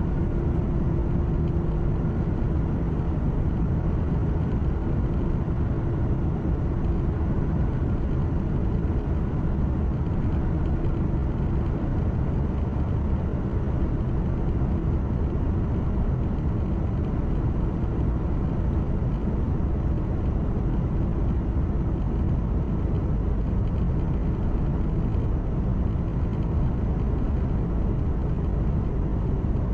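Truck driving steadily, heard from inside the cab: a continuous low engine and road rumble with a faint steady hum.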